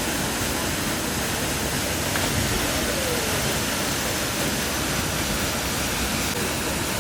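A waterfall's steady rush of falling water, an even hiss of water noise that doesn't change.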